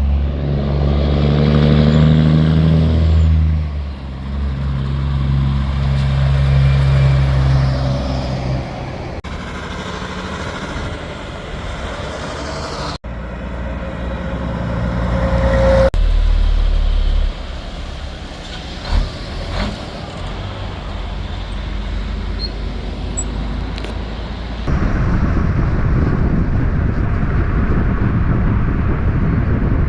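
Loud diesel engines of big-rig semi trucks pulling and running past, in a string of short clips that cut abruptly from one truck to the next. A strong, deep engine note dominates the first few seconds.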